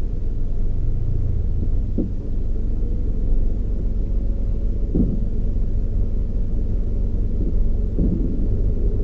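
Toyota Raize GR small SUV being driven: a steady low rumble of engine and road noise, with a short knock about every three seconds.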